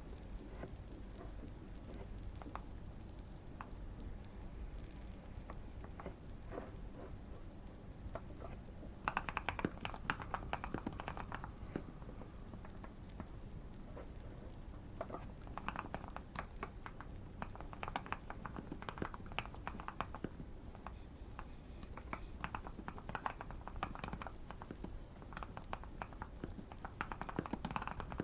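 Typing in bursts on a Keychron Q1 mechanical keyboard, with a quick run of keystrokes starting about nine seconds in and more runs after pauses. Faint fire crackling sounds under the typing.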